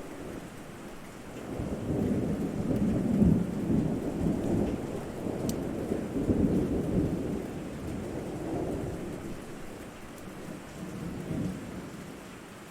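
Thunder rumbling in long rolling swells over steady rain, loudest about three seconds in and again a few seconds later, then fading away.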